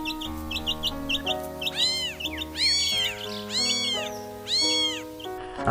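Cartoon kitten meowing four times, each meow rising and falling in pitch, over soft, slow background music. In the first second or two there are quick, high cheeps from a chick.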